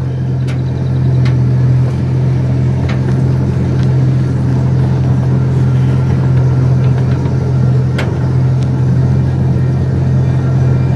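Miniature park train running along its track: a steady low drone and rumble from the train, with a few sharp clicks scattered through.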